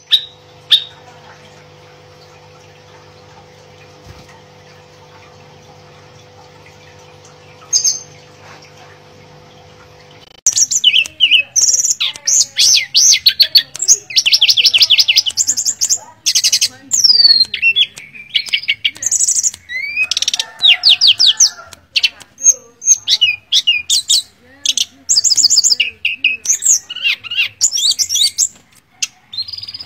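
Hill blue flycatcher (tledekan gunung) singing: a faint steady hum with a single short call for the first third, then loud, rapid song of fast high trills and whistled phrases with short pauses between them.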